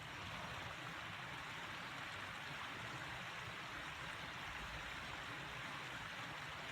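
Creek water rushing steadily over rocks, an even hiss with no break.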